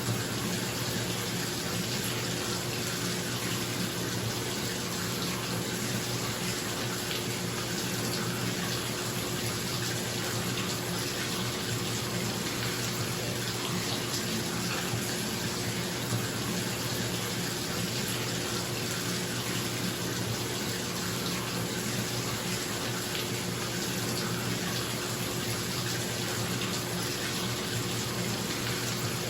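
Bathtub tap running into the tub in a steady, even rush of water, with a bathroom exhaust fan humming steadily underneath.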